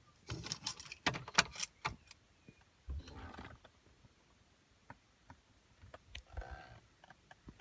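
Car keys jangling, with a run of sharp metallic clicks in the first two seconds, then a few softer rustles and clicks. No starter cranking or engine is heard.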